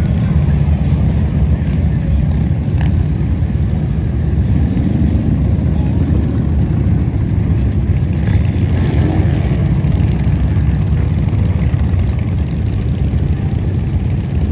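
Many motorcycle engines rumbling past together in a steady, loud low drone, with a couple of brief revs rising and falling about five and nine seconds in.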